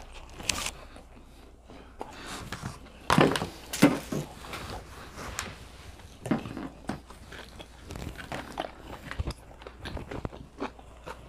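A person biting and chewing a mouthful of waffle close to the microphone: irregular wet smacks and clicks of the mouth, the two loudest bites about three and four seconds in.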